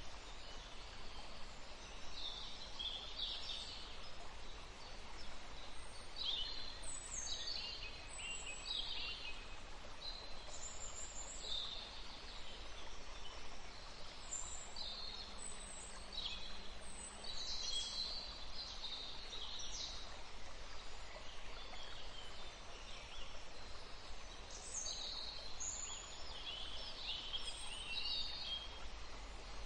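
Several songbirds chirping and trilling in frequent short phrases over the steady rush of flowing river water.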